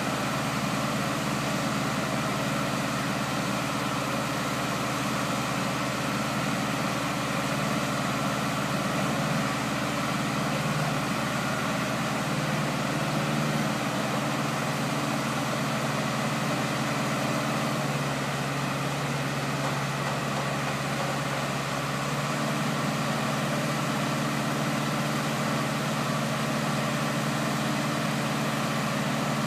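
Engine of a boat gantry (travel lift) running steadily, with a change in its note for a few seconds about two-thirds of the way through.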